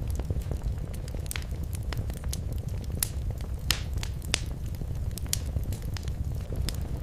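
Wood fire crackling in a fireplace: a steady low rumble of flames with irregular sharp pops and snaps, the loudest about three and a half seconds in.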